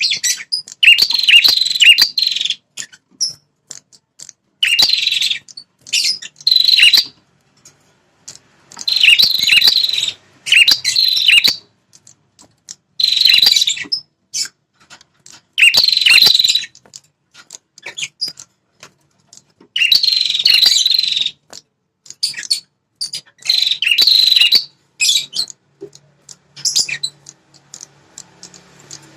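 Prenjak (prinia) song of the 'red-headed' kind used as a lure call: loud bursts of rapid, high chattering notes, each about a second long, often in pairs, with short pauses between.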